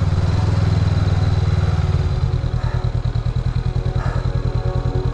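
Motorbike engine running, its sound turning into a distinct steady beat of about nine firing pulses a second from about two seconds in.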